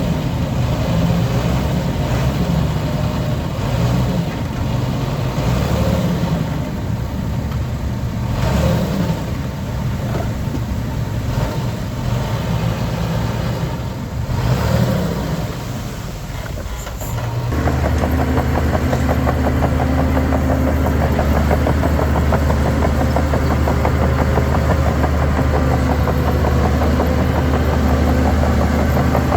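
Heavy diesel earthmoving machinery running, its engine note rising and falling under varying load. About two-thirds of the way through it switches abruptly to a steady, deep drone.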